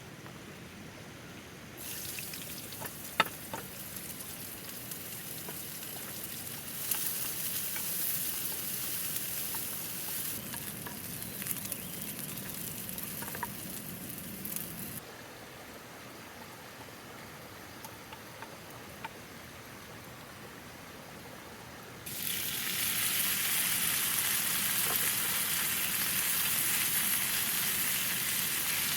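Food sizzling as it fries in a pan, the sizzle starting and stopping abruptly and loudest in the last several seconds. A sharp click sounds about three seconds in, with a few lighter ticks after it.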